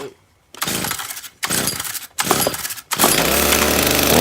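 FS45 two-stroke string trimmer being pull-started cold on choke: three pulls of the starter cord, then the engine catches about three seconds in and keeps running.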